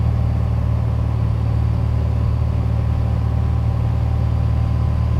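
Steady drone of a Piper Dakota's six-cylinder Lycoming engine and propeller, heard inside the cabin, at an unchanging reduced power setting during the descent.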